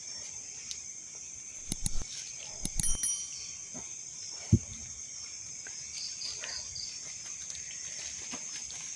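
Steady high-pitched chorus of night insects, with a few sharp clicks and knocks around two and three seconds in and a single louder thump about four and a half seconds in.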